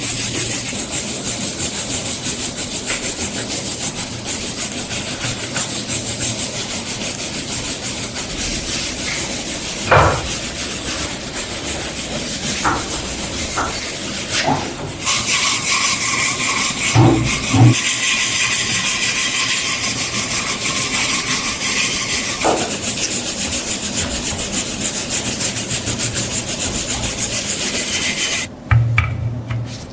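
Continuous abrasive rubbing and scraping on a workpiece, typical of hand filing or sanding during a restoration. A few sharp knocks come through, about ten and seventeen seconds in, and the rubbing breaks off briefly near the end.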